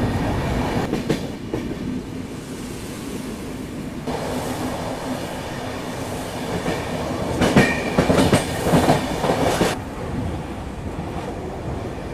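Train running along the track, heard from on board: a steady rumble with the wheels clicking over rail joints. The clatter grows louder for about two seconds in the second half.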